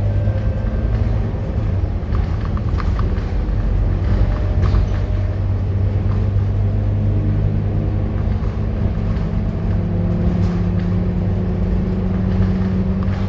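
Scania K230UB single-deck bus engine running with a steady low drone; about halfway through, a higher tone comes up and slowly rises in pitch as the engine works harder.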